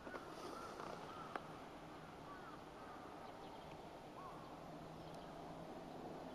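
A few short bird chirps over a faint steady low hum, with a single sharp click about a second and a half in.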